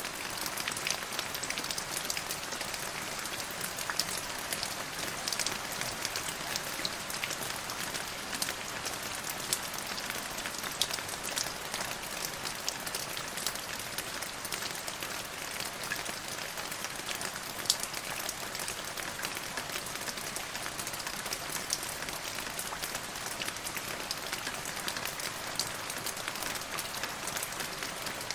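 Steady rain falling, with a dense patter of individual drops ticking over an even hiss.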